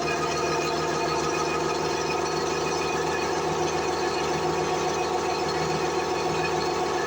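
A machine running steadily with a fast, even rattle, level and unchanging throughout.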